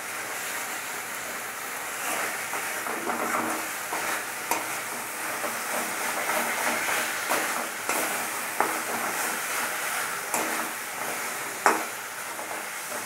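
Onion, turmeric and chilli masala sizzling as it fries in a metal kadai, with a spatula stirring it and now and then scraping the pan in sharp clicks. This is the frying-down stage of an Indian curry base.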